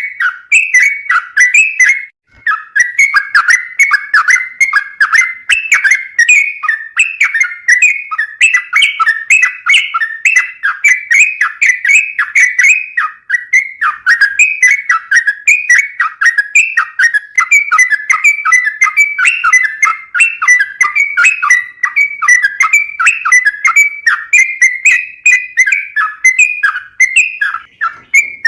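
Sooty-headed bulbul (trucukan) singing a long, rapid, unbroken run of chattering, whistled notes, with only a brief break about two seconds in.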